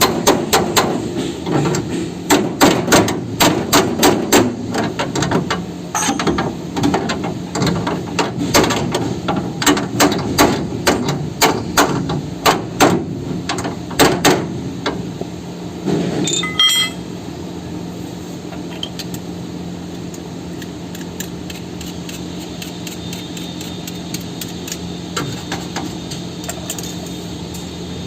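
Hammer blows on steel, about two a second, for the first half, ending with a ringing metallic clang. A steady machine hum then runs through the second half.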